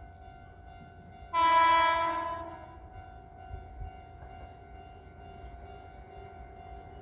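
Kintetsu 8000 series electric train sounding its horn once, a single blast of about a second that starts just over a second in and fades away, over a steady high hum.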